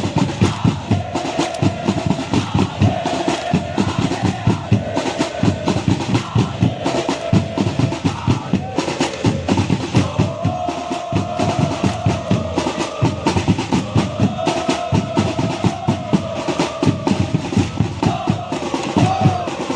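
Football supporters' drums beating a fast, steady rhythm while the crowd chants a melody in unison in phrases a second or two long.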